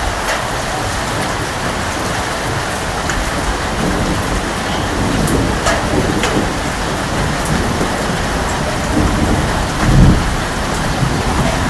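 Steady heavy rain with scattered individual drop ticks, and thunder rumbling low in the background, building about a third of the way in and swelling to its loudest near the end.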